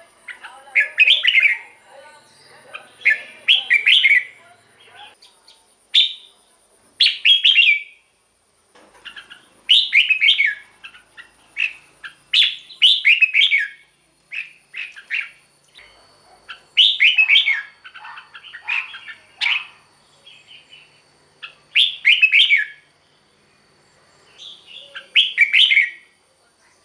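Red-whiskered bulbul singing: short, loud, warbling phrases repeated every second or two, with short pauses between them. A faint steady high whine runs underneath.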